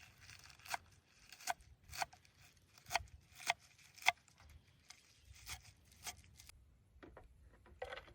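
A series of short, sharp knocks or snips, roughly two a second, with soft rustling between them; the hits thin out after about five seconds.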